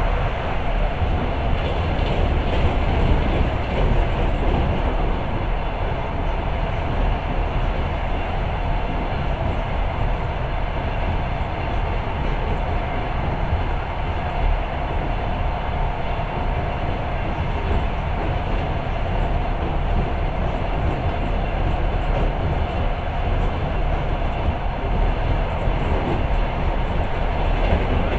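Passenger train running at speed, heard from inside the carriage: a steady rumble of wheels on rail with a faint steady hum.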